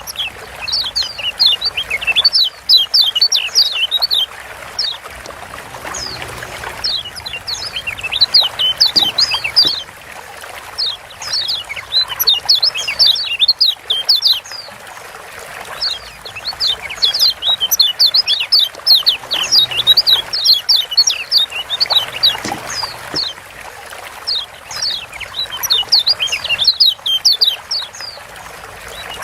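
Kecial kuning (Lombok yellow white-eye) giving its 'ciak' calls: runs of fast, high chirps lasting a few seconds each, repeated about eight times with short pauses between, over a steady hiss.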